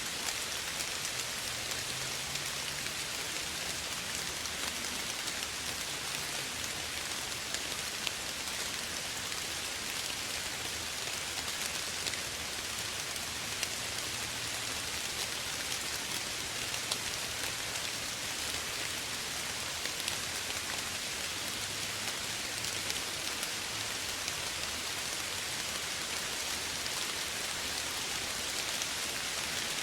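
Steady soft rain falling, an even hiss with many small drop patters.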